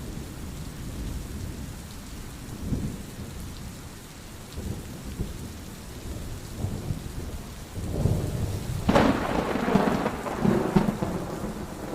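Steady rain with low rolling thunder, and a louder thunderclap about nine seconds in that rumbles on to the end.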